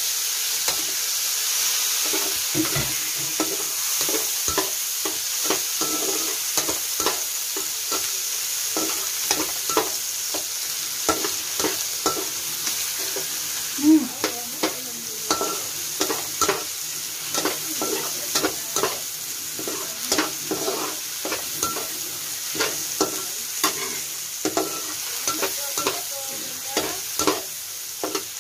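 Diced tomatoes and garlic frying in hot oil in a wok, sizzling steadily, while a metal spatula scrapes and taps against the pan as it stirs, with one louder knock about halfway through.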